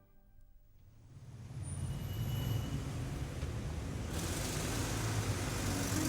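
Road traffic noise: a low rumble of passing vehicles that swells in over the first couple of seconds and grows brighter and hissier about four seconds in.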